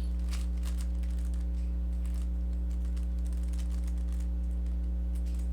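A Rubik's cube being turned through an algorithm: quick, irregular plastic clicks and clacks as the layers turn. A steady low hum runs underneath.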